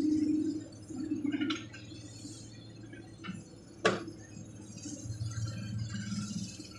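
Excavator diesel engine running at a low, steady pitch; a higher engine note falls away in the first half-second. About four seconds in comes one sharp metallic clank.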